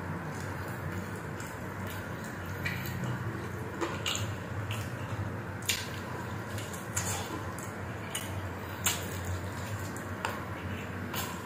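Close-miked wet chewing and lip smacking from eating a sauce-coated chicken adobo wing by hand, with sharp wet clicks at irregular moments every second or two.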